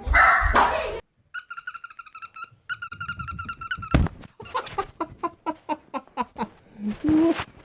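A pet's vocal calls: a high, wavering cry in two stretches, then a run of short calls about three a second.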